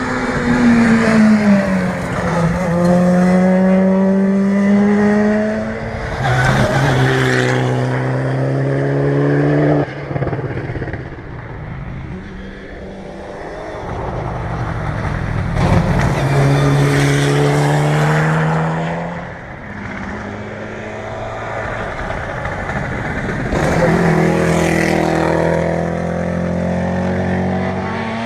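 Rally car engine accelerating hard on a gravel stage. The revs climb and drop with each upshift, several times over, with short bursts of harsh noise at some of the changes.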